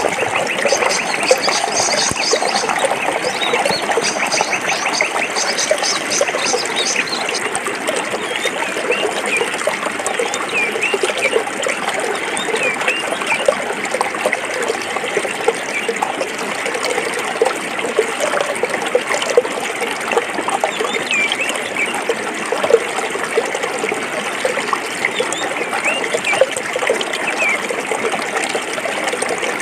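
A forest stream flowing and trickling over rocks, a steady rushing and babbling. Short high chirps come and go over it, with a fast high trill in the first several seconds.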